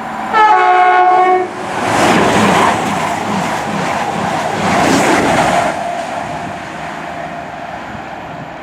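A train sounds its horn in a short blast of about a second, then passes through at speed: a loud rush of wheel and rail noise with a rhythmic clatter that fades after a few seconds.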